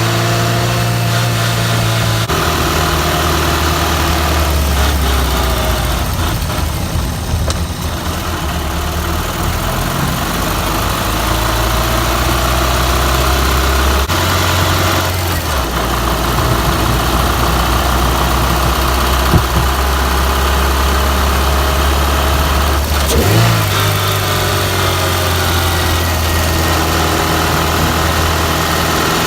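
Suzuki Swift 1.3-litre four-cylinder engine running, heard from inside the engine bay while the car is driven. Its speed steps up and down several times, near 2 s, around 14–16 s and near 23 s. There is one sharp tick about two-thirds of the way through. The recording was made to catch a transmission or rear driveshaft noise.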